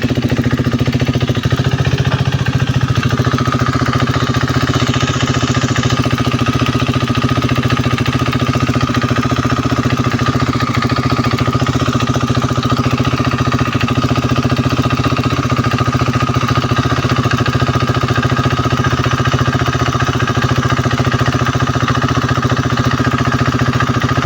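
KTM Duke 390 single-cylinder engine idling steadily, with a rapid clicking or ticking over it. The ticking comes from the solenoid-operated EVAP purge valve under the tank as the ECU pulses it, which is normal and not a fault in the cylinder head.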